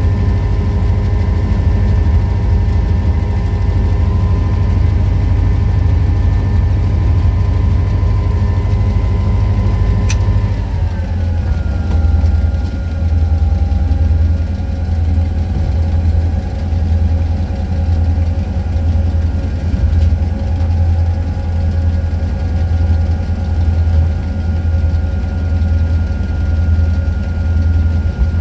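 EMD G16 diesel-electric locomotive's two-stroke V16 diesel engine running, its speed dropping about ten seconds in and settling to a lower steady idle with a pulsing low beat. A single sharp click comes just before the drop.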